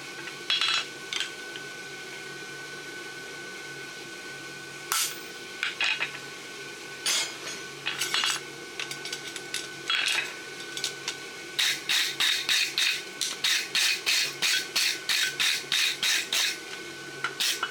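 Hammer blows on a steel name stamp, marking a forged steel horseshoe: single strikes spaced a second or more apart, then a quick run of about four taps a second lasting some five seconds, with a few more strikes near the end. A faint steady high tone runs underneath.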